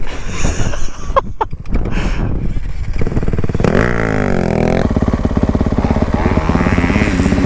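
Dirt bike engine running, heard clearly from about three seconds in: the revs swing up and down with the throttle, then hold at a steady high rev as the rider heads for the jump.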